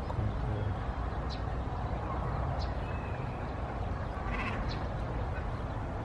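Birds giving scattered short calls over a steady low rumble.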